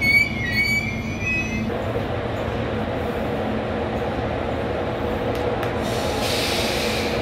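Trains at a station: a high wavering whine with overtones for the first second and a half, then it cuts to the steady rumble and hum of an arriving train hauled by a 060-EA electric locomotive. A short hiss comes near the end.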